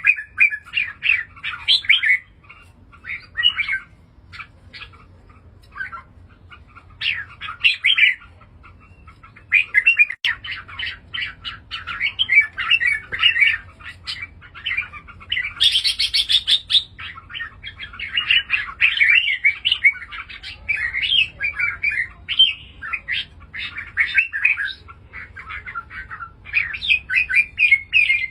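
Red-whiskered bulbul singing: short phrases of quick chirping notes, one after another with brief pauses.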